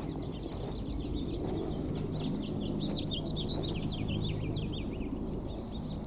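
A flock of small songbirds twittering: many quick, high, falling chirps overlapping one another, thickest in the middle and thinning near the end.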